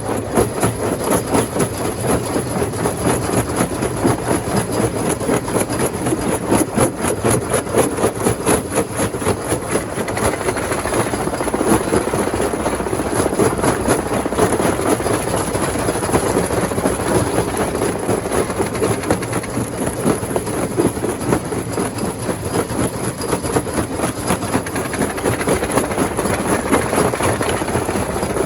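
Rock crusher machine running steadily, with a dense, rapid clatter of stone being broken over the continuous rumble of the machinery.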